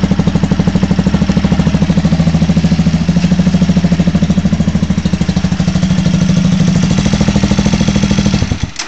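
150cc motorcycle engine idling steadily in neutral with an even pulsing beat, then shut off about eight and a half seconds in, dying out within half a second.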